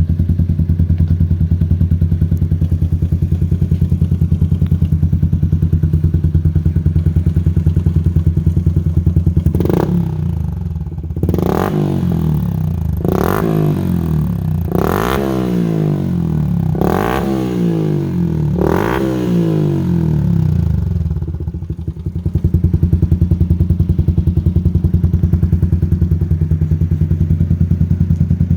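Yamaha Crypton X 135's four-stroke single-cylinder engine breathing through a Trioval TRC High Up full aftermarket exhaust. It idles steadily, is blipped about six times in quick succession, each rev falling back, and then settles back to idle.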